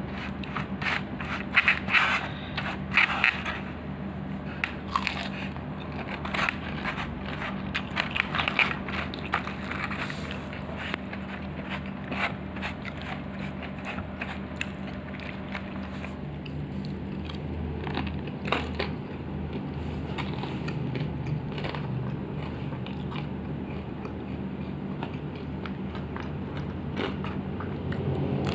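Close-up chewing and biting of crispy fried chicken, many short crackling crunches, loudest and densest in the first ten seconds, over a steady low hum.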